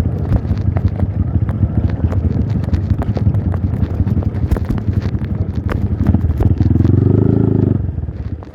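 Trail motorcycle engine running under load on a rough dirt track, with rattling and knocks from the bike over the ground. About six and a half seconds in it revs up hard for about a second, then eases off near the end.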